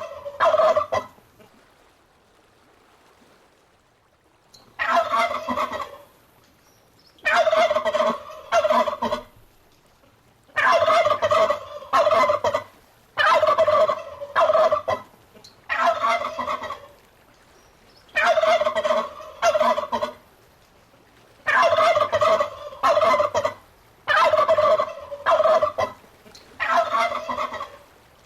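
Domestic turkey gobbling: a series of rapid rattling gobbles, one every two to three seconds, after a few seconds' pause near the start.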